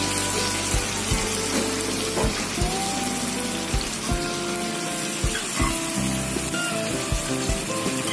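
Chicken slices frying in oil in a cast iron skillet, a steady sizzle heard under background music with a regular beat.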